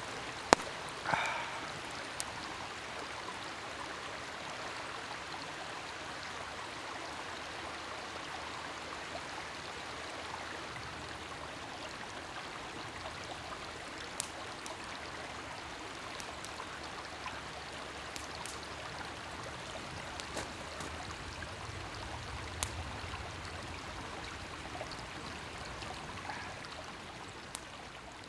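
Wood campfire burning: a steady hiss with scattered sharp pops and crackles, the loudest pop just after the start.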